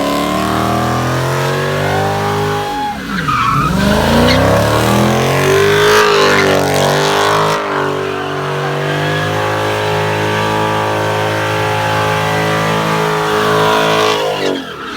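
A car's engine held at high revs while its tyres spin and squeal through a burnout or donut. The revs drop sharply about three seconds in, climb back within a few seconds and hold high until they fall away near the end.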